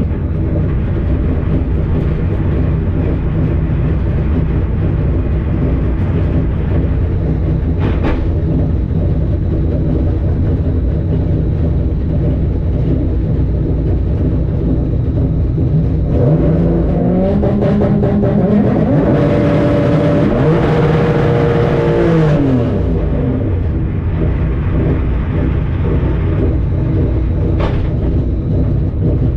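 Car engine rumbling steadily at idle, then revving up about two-thirds of the way in, holding high for a few seconds and dropping back to idle.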